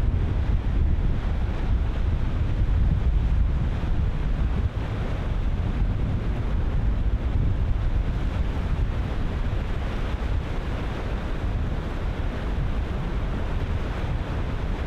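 Ocean surf breaking continuously, with strong wind buffeting the microphone and giving a heavy low rumble.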